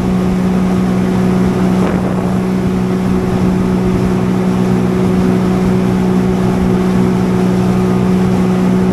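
Jet ski engine running steadily at cruising speed, an even engine hum under a steady rush of wind and water.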